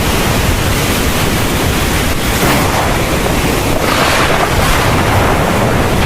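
Heavy thunderstorm rain falling steadily over a continuous low rumble of thunder, the rush swelling briefly about two and a half seconds in and again around four seconds.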